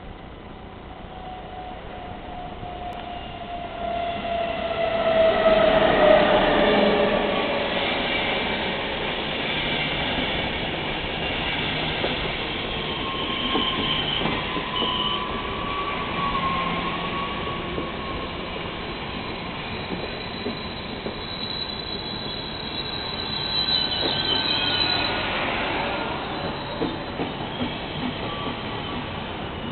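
SBB Re460 electric locomotive and its double-deck coaches rolling along the platform. A whine falls in pitch as the locomotive goes by about five seconds in. The coaches follow with steady rolling noise and squealing wheels, and the squeal swells again about 24 seconds in.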